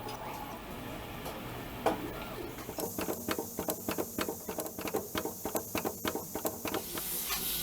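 Production-line machinery running with a steady hum, then a quick run of sharp mechanical clicks, about four or five a second, for about four seconds.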